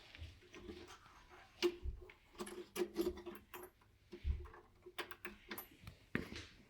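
Irregular light clicks and knocks, as of small objects being handled, over a faint background murmur.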